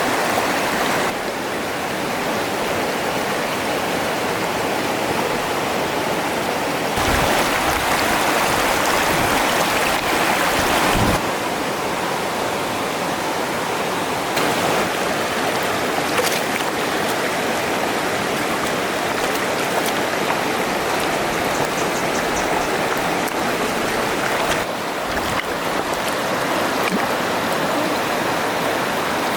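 Steady rush of running stream water, its level shifting abruptly a few times.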